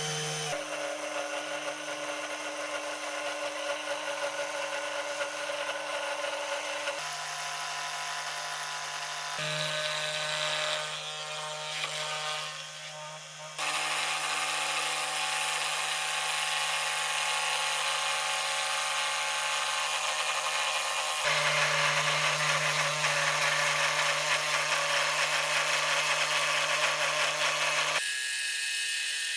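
A small electric power tool running steadily, its motor giving a constant hum with a hiss over it, in several stretches that change abruptly from one to the next.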